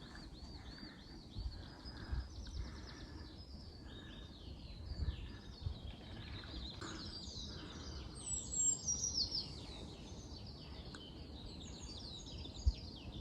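Small songbirds singing outdoors: a string of quick chirps and trills, busier and louder in the second half, with a few soft low bumps underneath.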